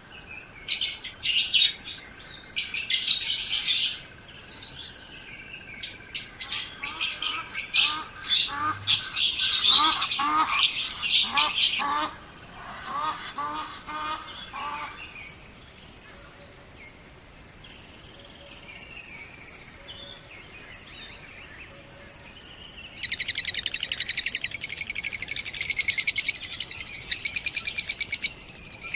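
Pet lovebirds calling: loud, shrill chirping in bursts, then quieter chatter, then a long stretch of rapid chirping near the end.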